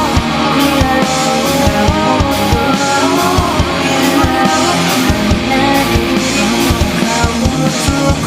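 Pop-punk band music: distorted electric guitars over a fast, steady drum-kit beat.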